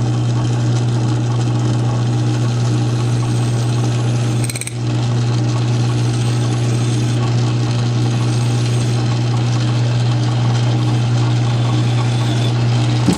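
South Bend lathe running steadily with a strong low hum, the motor and drive turning the work, with a brief dip about four and a half seconds in and a sudden stop at the end.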